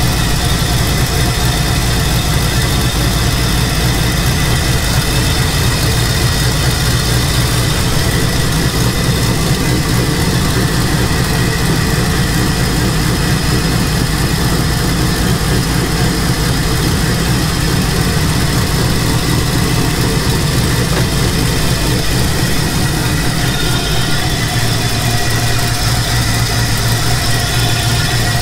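Twin-turbo LS V8 in a Nissan 300ZX idling steadily, still warming up at around 800 RPM. It is running a little rich on its bigger new injectors.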